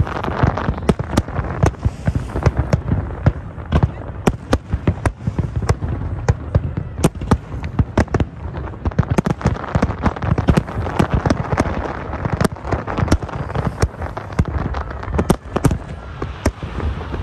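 Dense fireworks barrage: many shells bursting over the water in quick succession, sharp bangs several times a second over a continuous low rumble.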